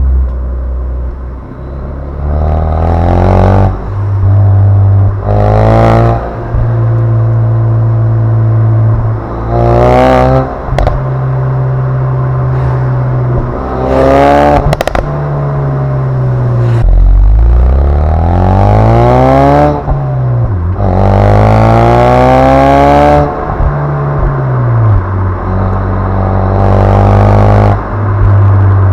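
2016 Ford Focus RS's 2.3-litre turbocharged four-cylinder exhaust, blipped repeatedly and settling back to a steady idle between revs, with two longer, higher revs in the second half. A few sharp cracks come from the exhaust around the middle.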